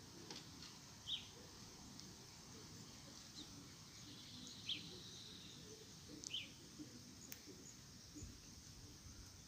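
Small birds giving a few short, high chirps, three of them the clearest, spread irregularly over faint steady background hiss.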